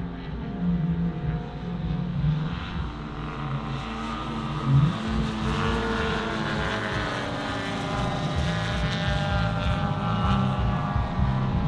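Propeller engine of a large-scale radio-controlled WW2 fighter model flying a pass. The engine note grows louder and brighter through the middle as the aircraft comes closer, then eases off slightly.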